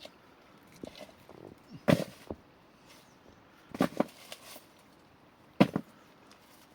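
Three heavy blows spaced about two seconds apart, each a single sharp strike with a short tail, like something being chopped or pounded.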